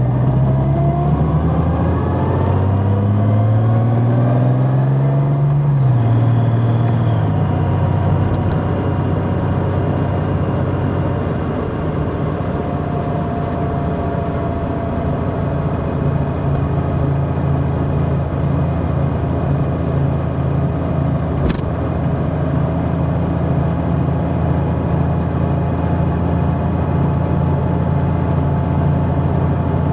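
Large motorcycle engine under way, heard from on the bike: its pitch climbs over the first six seconds or so, drops sharply, then holds at a steady cruise. A single sharp click about twenty seconds in.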